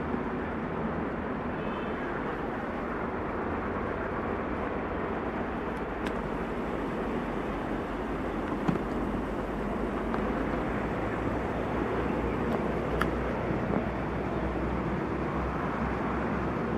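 Diesel-hauled passenger train running away down the line: a steady rumble of coach wheels on the rails, with a few sharp clicks from the track.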